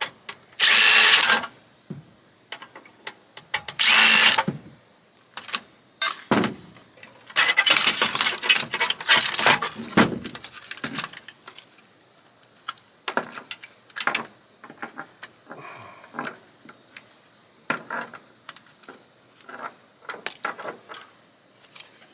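Electric drill spinning in two short bursts as screws are backed out of the oscilloscope's case, followed by a stretch of irregular clattering and scattered clicks of metal parts and screws being handled. A steady high chirring of crickets runs underneath.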